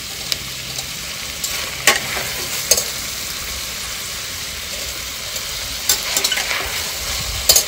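Onions and freshly added tomatoes frying in hot oil in a stainless-steel pressure cooker, a steady sizzle. A few sharp clinks come as steel utensils knock and scrape against the pot.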